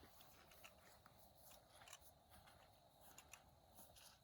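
Near silence, with a few faint, scattered ticks.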